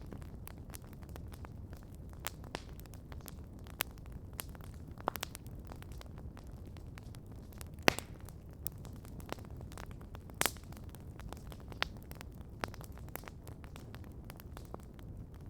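Wood campfire crackling: irregular sharp pops and snaps over a steady low rumble, with two louder pops near the middle.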